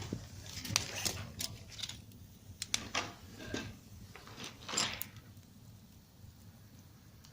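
A series of sharp clicks and knocks, most of them in the first five seconds, then a quieter background.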